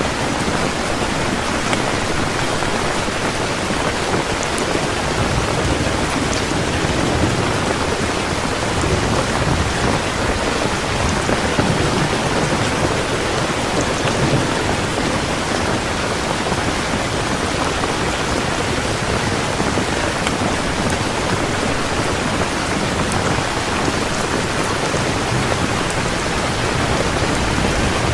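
Heavy rain falling steadily, with low rolling thunder swelling in the background.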